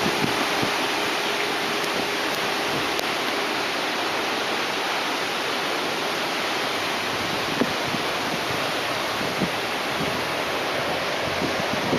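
Steady rush of typhoon rain and wind, with gusts buffeting the microphone in irregular low thumps.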